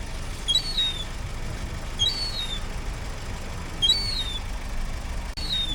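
A bird repeating a short, high two-part call about every second and a half: a quick note, then a higher note that falls away. Underneath is a steady low rumble.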